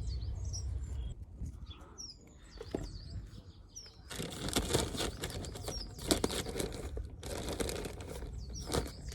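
Small birds chirping now and then. From about four seconds in, a dense rustling and crackling joins them, as of things being handled.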